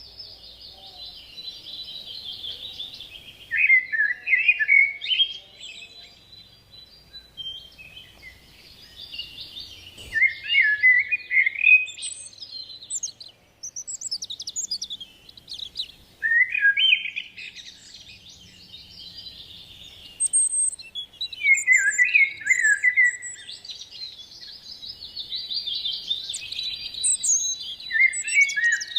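Songbirds chirping and singing in phrases that recur every few seconds. Each phrase has high twittering with louder, lower chirps among it.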